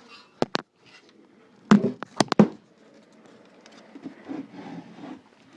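Knocks and clunks of a battery and an upturned amplifier chassis being shifted on a workbench to prop the amplifier up: two light clicks, then a quick cluster of four louder knocks about two seconds in, followed by faint handling noise.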